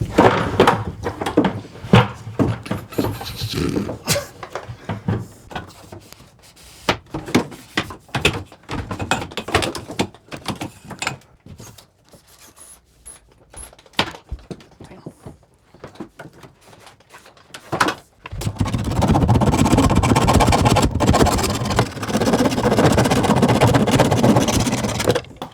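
Knocks, clunks and scraping of pipes being worked on, then, from about 18 seconds in, a loud steady rushing noise that runs until near the end.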